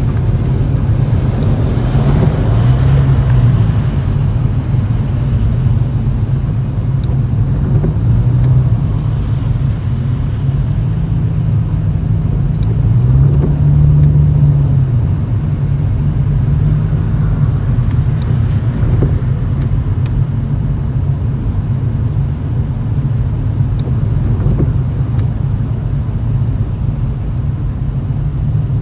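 Exhaust drone of a Toyota Chaser GX100's 2.0-litre straight-six through an aftermarket Reinhardt bullet muffler with a mid-pipe silencer, heard from inside the cabin at low speed. A deep, steady rumble whose pitch climbs and eases off several times as the throttle is gently applied and released.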